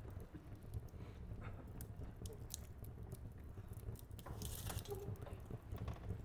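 Fire crackling in a fireplace: scattered sharp pops and snaps over a low steady rumble, with a brief hiss about four and a half seconds in.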